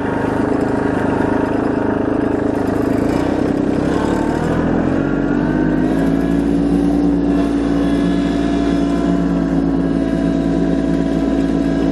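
Kubota LX2610 compact tractor's three-cylinder diesel engine running steadily under the operator, its pitch rising about four seconds in as engine speed is raised, then holding at the higher speed.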